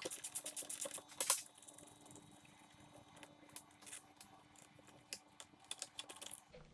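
Light clicks and taps of a chainsaw's plastic housing and small parts being handled during disassembly: a quick run of clicks in the first second or so, then scattered single taps, over a faint steady hum.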